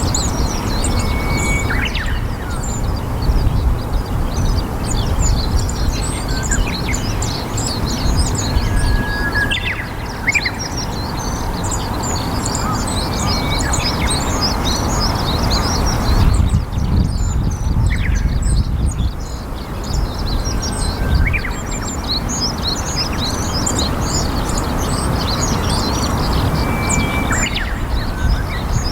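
Many small birds chirping in a dense, continuous chorus of short high notes, with a few brief whistled notes now and then, over a steady low rumble.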